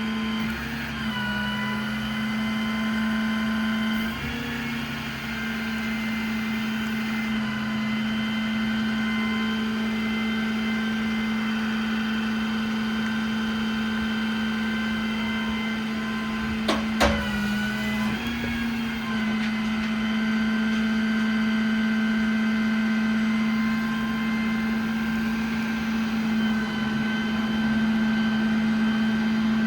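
Cummins diesel truck engine driving the service crane's hydraulic pump, a steady whine with brief dips about 1, 4 and 18 seconds in as crane functions load and unload it. A sharp click or knock sounds once, about 17 seconds in.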